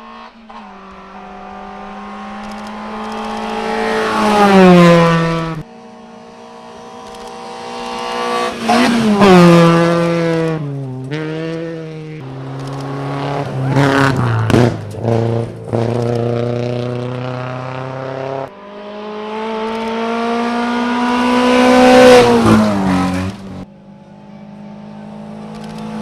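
Three rally cars pass one after another at full speed. Each engine rises in pitch and loudness as the car approaches, then drops sharply as it goes by. The second car shifts through several gears after passing and gives a few sharp exhaust cracks.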